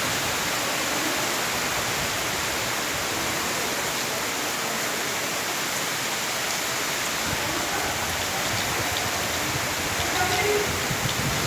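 Heavy cyclone rain pouring steadily, an even, unbroken hiss of water.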